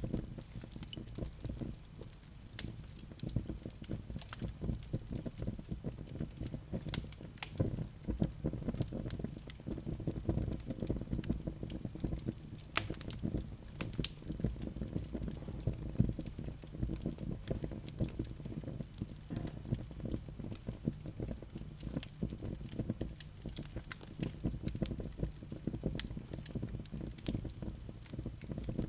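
Wood fire burning steadily in a fireplace, with a low rumble of flames and many small irregular crackles and pops from the burning logs.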